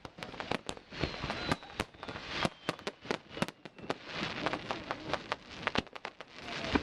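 Fireworks display: dense crackling pops, many a second, with a few faint falling whistles.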